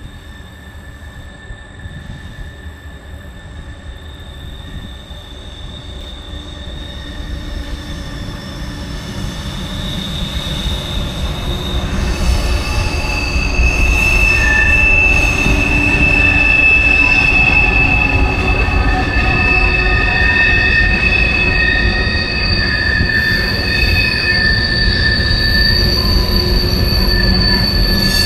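Freight train rolling past with its wheels squealing on the rails in several high steady tones over a low rumble, growing louder through the first half as it comes close, then holding steady.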